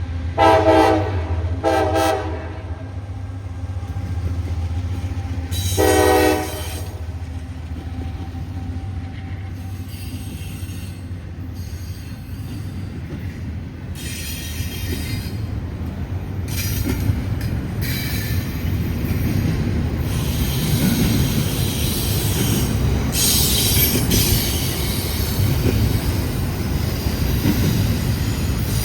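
Freight train locomotive horn sounding two short blasts and then a longer one about six seconds in. The train then passes with a building low rumble and wheel squeal that comes and goes.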